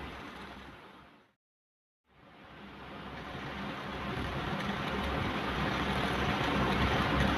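Ocean waves washing on a shore as a steady rushing noise, which fades out to complete silence a little after a second in and then fades back in, building up again over the next few seconds.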